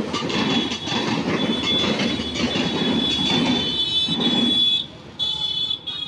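Indian Railways passenger coaches rolling past close by, their wheels rumbling on the rails with a steady high-pitched wheel squeal. About five seconds in, the rumble drops off sharply as the last coach clears. The squeal returns briefly and then fades.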